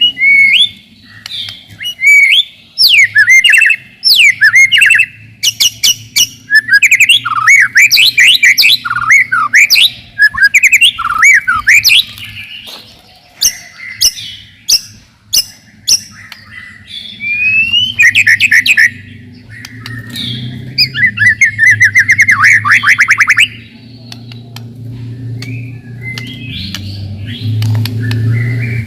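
White-rumped shama (murai batu) singing a loud, dense song of rapid-fire whistles, sweeping notes and sharp chips, including a fast run of repeated notes about three quarters of the way through. A steady low hum runs underneath, louder near the end.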